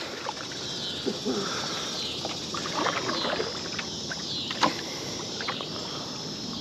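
Kayak on the water: scattered light knocks and splashes over a steady outdoor hiss, with a sharper knock a little past halfway.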